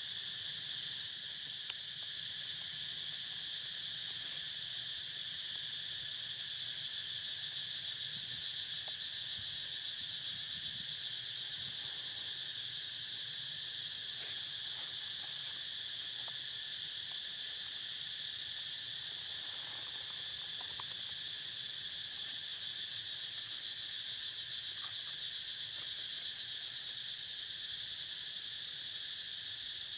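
Steady insect chorus, a continuous high-pitched drone that holds an even level throughout, with a few faint ticks now and then.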